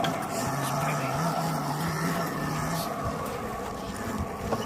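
Motorcycle engine running off-road, its note stepping up slightly about a second in, holding, then dropping away about three seconds in.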